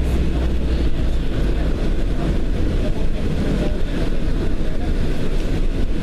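Steady low engine and road rumble of a moving bus, heard from inside the bus.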